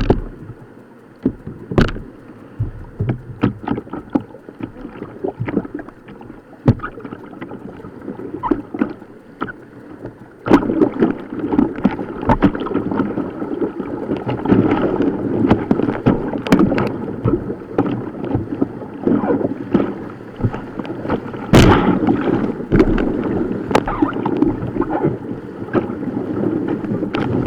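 Moving river water around a kayak on a white-water run, with many short splashes and knocks, likely from paddle strokes and the hull. The rushing water gets noticeably louder about ten seconds in and stays loud.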